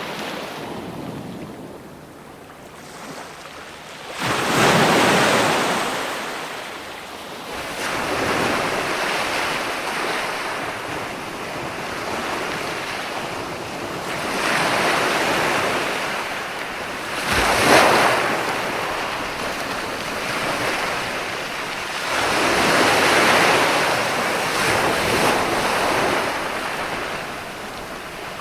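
Ocean waves breaking on shore, surging and washing back in irregular swells, with one sharp crash about two-thirds of the way through.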